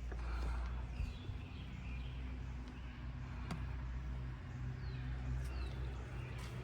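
Small birds chirping, a few short falling chirps, over a steady low hum, with a single sharp click about three and a half seconds in.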